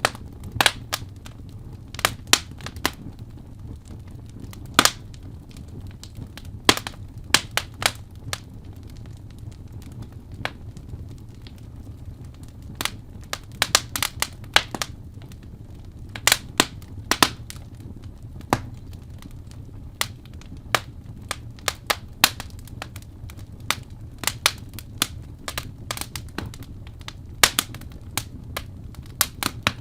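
Wood fire crackling in a fireplace: irregular sharp pops and snaps, some in quick clusters, over a low steady rumble.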